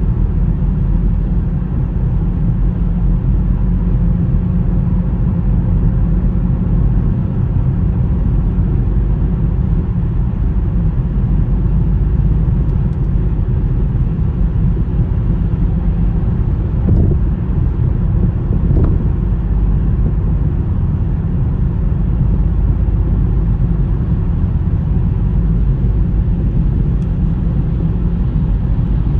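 Car driving through a snowstorm: a steady low rumble of engine and tyre noise on the snowy road.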